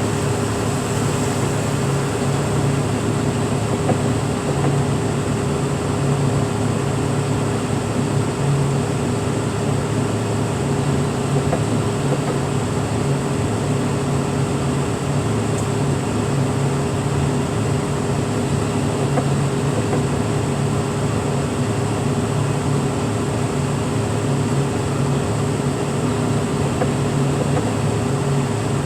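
Heavy machinery's engine running steadily, a constant hum with a thin high whine over it.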